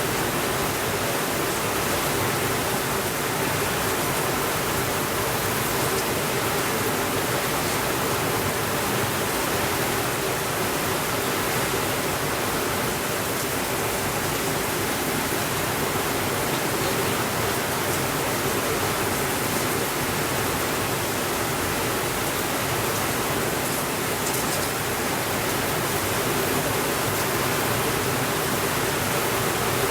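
Steady rainfall: a dense, even hiss with no pauses or swells.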